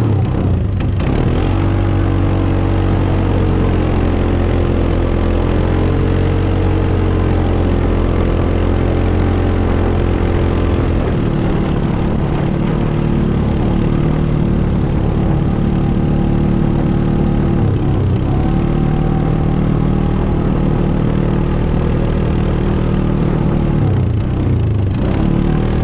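A 4-wheeler (ATV) engine running steadily, its pitch rising and falling a few times as the throttle changes.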